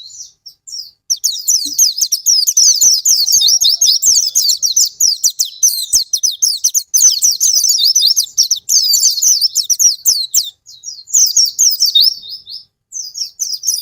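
White-eye (pleci) song: a fast, continuous high twittering of rapid chirps, with short breaks about half a second in and near the end.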